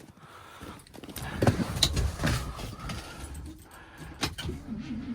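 Starter cranking a reluctant engine over in uneven knocks and clatter, loudest a second or two in.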